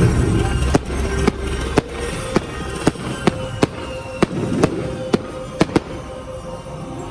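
Fireworks going off in a string of about a dozen sharp bangs, roughly two a second, over show music.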